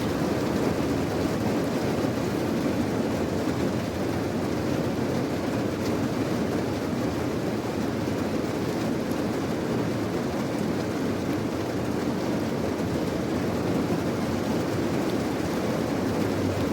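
Rain falling steadily: a dense, even noise weighted toward the low end, with no single drops or breaks standing out.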